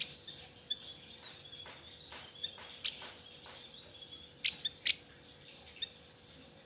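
Javan grey-throated white-eye giving short, sharp chip calls at irregular intervals, the loudest a cluster about four and a half to five seconds in, over a steady high insect-like whine.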